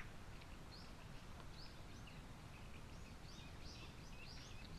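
Faint outdoor background noise with a bird giving a series of short, high chirps, about two or three a second.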